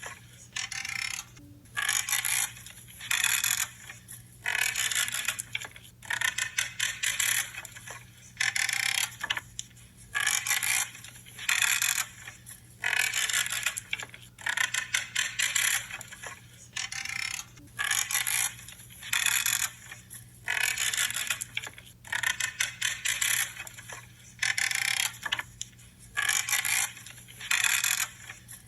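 Branches being cut one after another, each cut a creaking crunch lasting under a second, about every second and a half.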